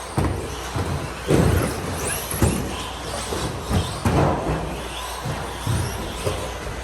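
Several electric RC stadium trucks racing on an indoor carpet track: motors whine and rev up in quick rising sweeps, with a series of irregular thuds and knocks as the trucks land jumps and strike the track.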